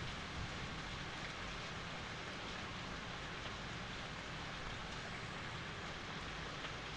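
Steady rain falling: an even hiss with a few faint, scattered drop taps.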